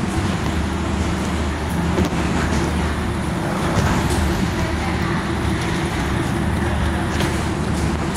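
Steady low engine drone with no change in pitch, and faint voices of a crowd underneath.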